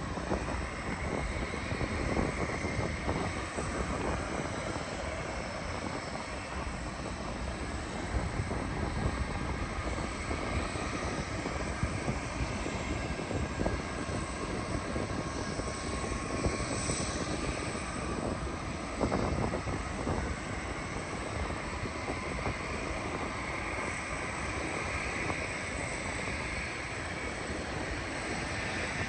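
Jet airliner engines on landing approach: a steady broad roar with a faint high whine, and wind buffeting the microphone.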